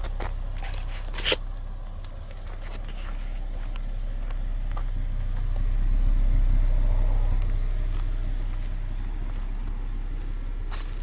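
Volvo C30 T5's turbocharged inline five-cylinder engine running at idle through its exhaust, a steady low rumble that swells up briefly in the middle before settling back.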